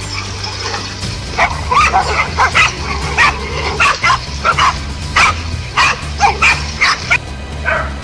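A dog barking over and over, short sharp barks about two a second with some higher yips mixed in. Background music with a low bass line plays under it.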